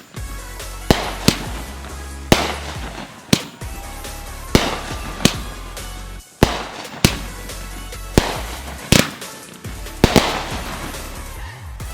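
Consumer fireworks going off in quick succession: about a dozen sharp bangs, some trailing a crackling hiss, over background music.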